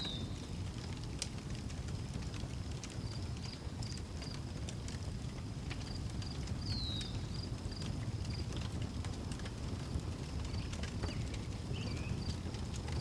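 Outdoor wood fire crackling with scattered sharp pops over a low steady rumble. Crickets chirp in a steady high pulsing series, and a bird gives a short falling call twice, near the start and about halfway through.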